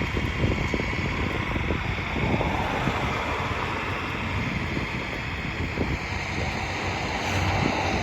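Tractor engine running steadily, with wind rushing over the microphone.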